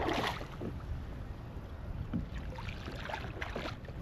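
A hooked fish splashing at the water's surface beside a kayak as it is brought in, with a sharper splash at the start and smaller splashes after it, over a steady low rumble of wind.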